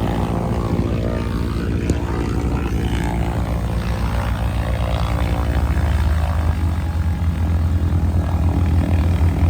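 Propeller airplane flying with its engine droning steadily, growing louder in the second half.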